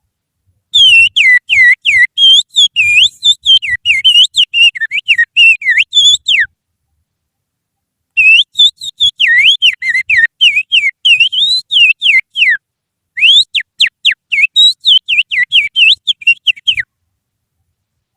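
Human finger whistling imitating an Oriental magpie-robin (kacer) song: rapid runs of short, bending and falling whistled notes, in three bursts with brief pauses between them.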